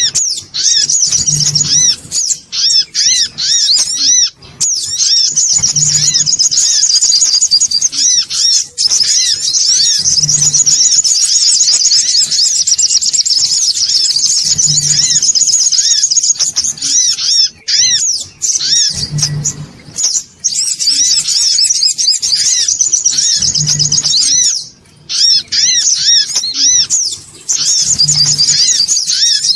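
Fast, high, agitated chattering song of a songon otong (a small yellow sunbird), played as a looped lure call. The notes run in dense strings with a few brief breaks, and a soft low thump recurs about every four and a half seconds.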